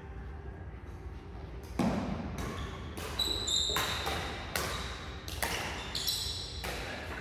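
A badminton doubles rally: rackets strike the shuttlecock in a quick exchange of sharp hits about every half second, starting about two seconds in, with shoes squeaking on the court floor between hits.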